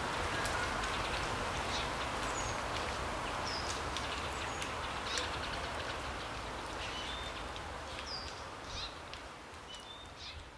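Forest ambience: a steady rustle of wind in the trees with scattered short, high bird chirps and calls, the whole fading out gradually.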